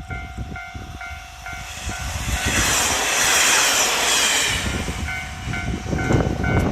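Japanese level-crossing warning bell ringing about twice a second while the Hanayome Noren diesel railcars rumble and clatter through the crossing. In the middle a loud rushing hiss swells and fades as the train goes by, drowning out the bell before it returns.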